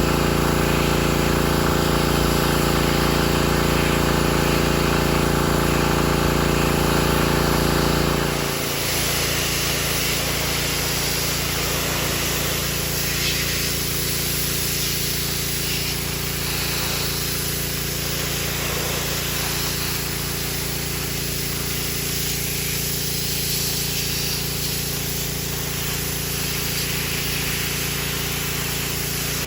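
An engine running steadily, its pitch and level shifting down slightly about eight seconds in.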